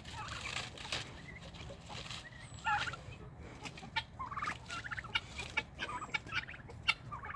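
Domestic fowl calling: a flock giving many short, harsh pitched calls, with a quick chattering run of them about four to six seconds in, and scattered sharp clicks.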